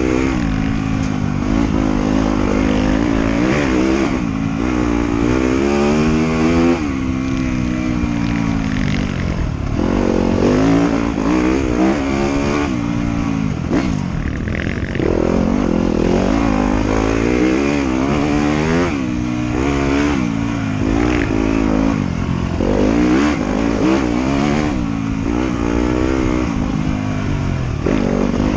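Motorcycle engine under way on a trail, its pitch repeatedly climbing and dropping back every few seconds as the throttle opens and shuts and the gears change.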